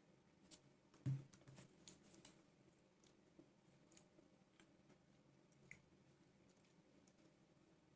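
Near silence with faint, scattered small clicks and taps, and one soft thump about a second in.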